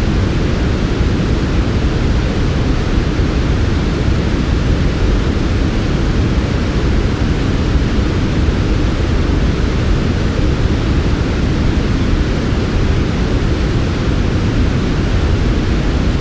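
Steady synthetic white noise for sleep, even and unchanging, heaviest in the low end with a softer hiss above.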